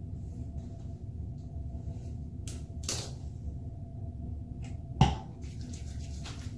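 Steady low room hum with a few brief handling knocks and rustles; the sharpest knock comes about five seconds in, with a short rushing swish a couple of seconds before it.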